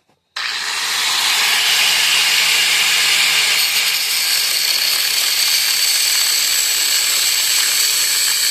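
A power tool starts abruptly about half a second in and runs steadily, cutting through a seized steel bolt with a loud, even hiss of metal being cut.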